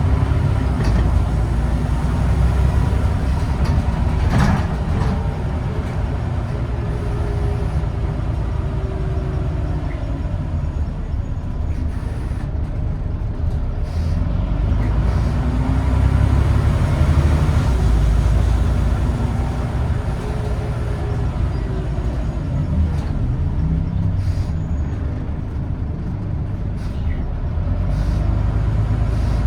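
Onboard a Scania N94UD OmniDekka double-decker bus on the move: its 9-litre diesel engine rumbles, its pitch rising and falling several times as the bus pulls away and slows. A brief air-brake hiss comes about four seconds in.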